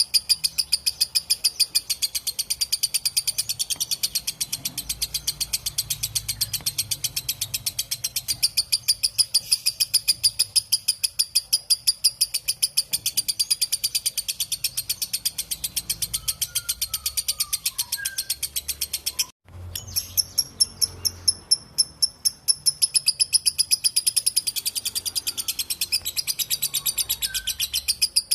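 Lovebird ngekek: a long run of rapid, high chattering notes, several a second, that breaks off for a moment about two-thirds of the way through and then carries on.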